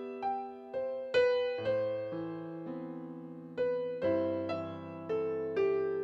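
Solo piano music: single struck notes in a slow, gentle melody, each note ringing and fading, about two a second.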